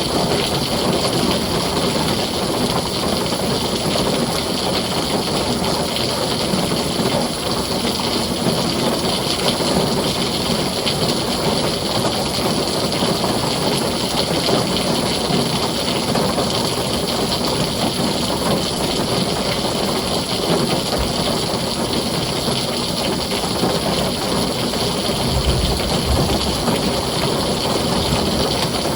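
Heavy rain falling steadily on a tin roof, a constant dense hiss. A brief low rumble comes a few seconds before the end.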